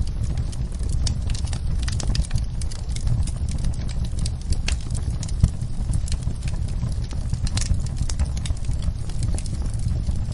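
Wood fire in a fireplace burning steadily, with a low rumble of flame and frequent irregular crackles and pops of burning logs, one sharper pop about five seconds in.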